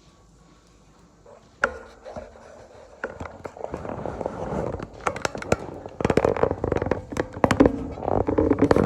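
Hand claps and crowd noise from a congregation, starting with one sharp clap and building into dense, louder clapping.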